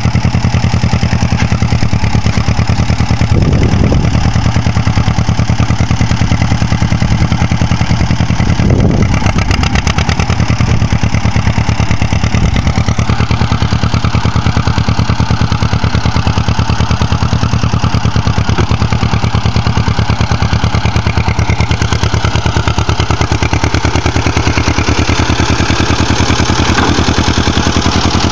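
1955 John Deere 40-V high-crop tractor's two-cylinder engine running steadily with even, rapid firing pulses, swelling briefly about three and nine seconds in.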